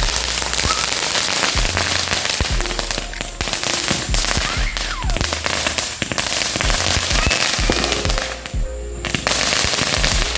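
A multi-shot consumer fireworks cake (a "short stack") firing a fast, continuous barrage of bangs and crackles, which eases off briefly near the end.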